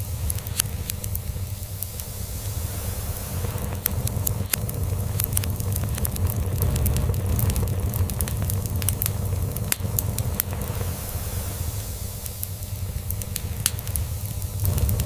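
Log fire crackling, with frequent sharp pops and snaps over a steady hiss, and underneath it a low continuous rumble of a cat purring that swells and eases slowly.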